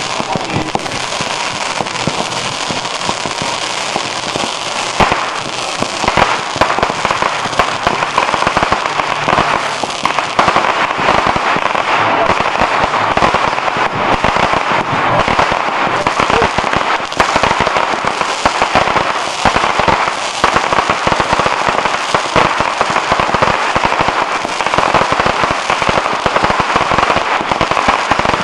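Fireworks going off in dense, continuous crackling: a rapid stream of small pops and reports with a few louder bangs scattered through.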